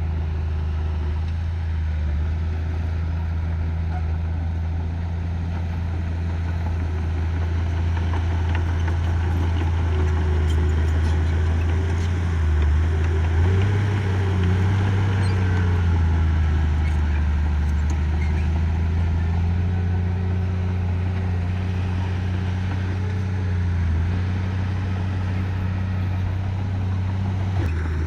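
Diesel engine of heavy construction machinery running steadily. Its pitch rises for a few seconds about halfway through as it works harder, then settles back.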